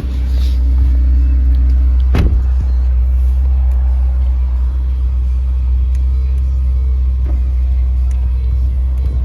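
Ferrari Portofino with its twin-turbo V8 driving at a steady speed: a loud, even low rumble that does not change. A single sharp knock comes about two seconds in.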